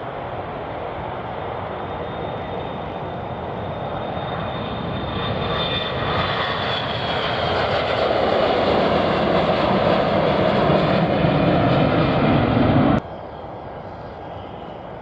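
Aircraft engines growing louder as a plane passes close by, with a high whine that slides down in pitch a few seconds in. The sound cuts off suddenly near the end.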